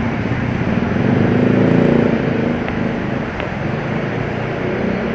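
Street traffic: a motor vehicle's engine passing close by, growing louder to a peak about two seconds in and then fading, over steady traffic noise.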